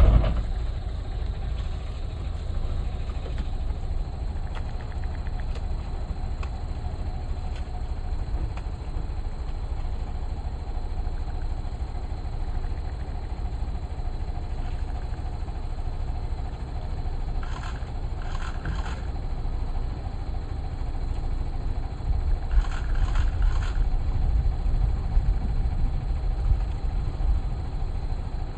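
Safari vehicle's engine running steadily at idle or low speed, a low rumble throughout, with a short knock right at the start. Two groups of quick, repeated bird chirps come through the engine noise about two-thirds of the way in.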